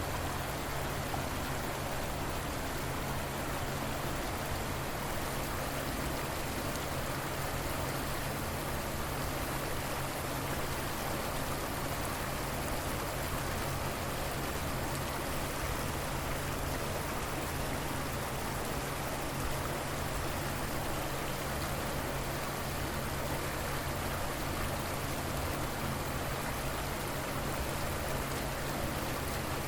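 Steady rush of a flowing river, an even wash of water noise that does not change.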